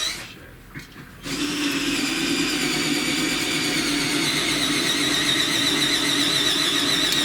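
Steady whirr of a small electric motor, starting about a second in and running on without change.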